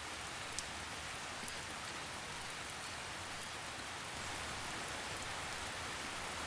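Steady rain falling on leaves, an even hiss with a few soft drips standing out.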